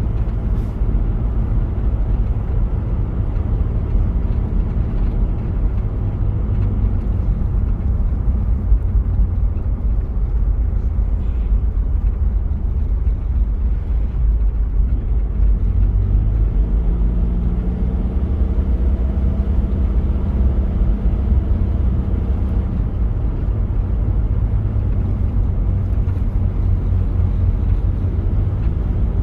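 Diesel engine of a 1993 Toyota Prado running as it drives, a steady low drone. Past the middle its note rises and holds higher for a few seconds, then settles back.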